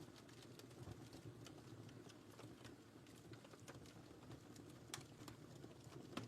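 Wood fire crackling faintly: scattered sharp pops and snaps over a steady low rumble of burning logs, with a louder pop about five seconds in and another near the end.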